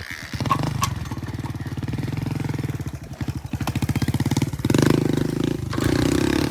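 Honda XR70 pit bike's small single-cylinder four-stroke engine firing up about a third of a second in and running at a steady pulsing idle, then revved up near the end.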